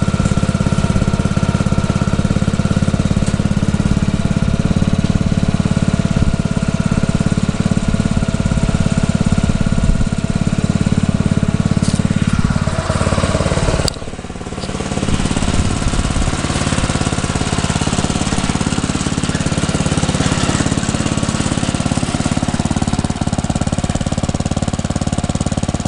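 Briggs & Stratton single-cylinder small engine, newly fitted to a rototiller, running steadily. About fourteen seconds in the sound breaks off sharply with a click and a brief dip, then carries on running a little quieter.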